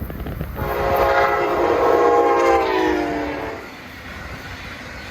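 Horn of a Brightline passenger train sounding one long blast as it races through a grade crossing. The blast's pitch drops near its end as the train goes by, followed by the fainter noise of the passing train.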